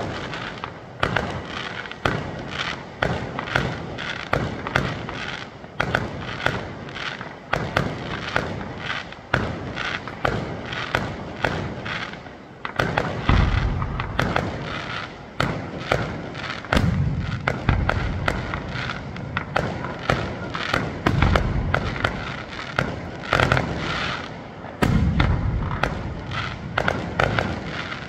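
Aerial fireworks display: shells launching and bursting one after another, several sharp bangs a second, with stretches of deeper, heavier booms from about halfway on.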